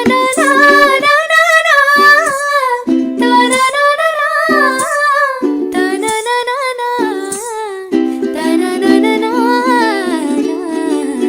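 Music: a woman's voice singing a Marathi lavani melody in phrases with brief breaks, over steady held low notes of an accompaniment.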